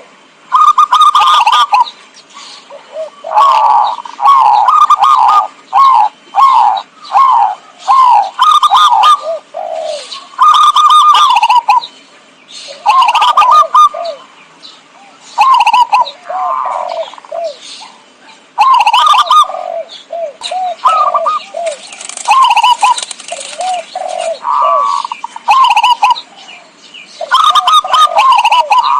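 Zebra dove (perkutut) cooing, a recording of its song used as a lure call: loud, repeated phrases of quick staccato coos, one after another with short pauses between.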